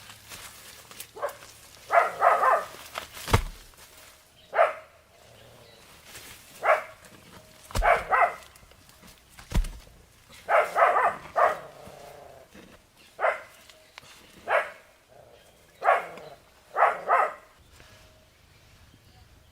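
A dog barking in short single barks and quick doubles, about ten times over the stretch, with a few dull thumps between them.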